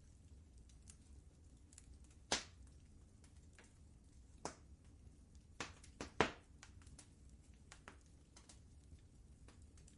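Wood fire in a fireplace crackling softly: scattered small pops and snaps, the sharpest about two seconds and about six seconds in, over a low steady rumble.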